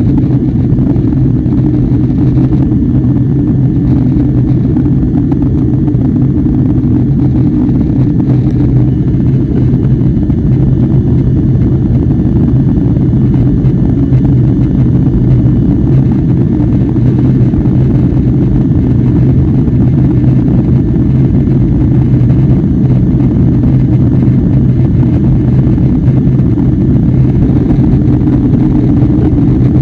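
Steady airliner cabin noise: the jet engines and airflow give an even, low rumble with a constant hum, without any thump or change.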